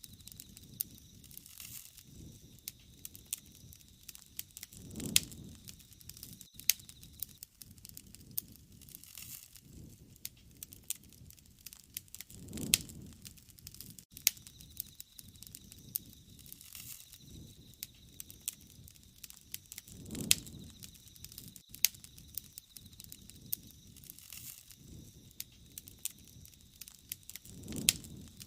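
Wood fire crackling and popping, with sharp snaps scattered throughout and a soft low whoosh of the flames about every seven seconds.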